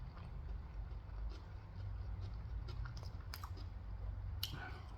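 A person chewing Korean fried chicken, with a few scattered soft crunches and mouth clicks.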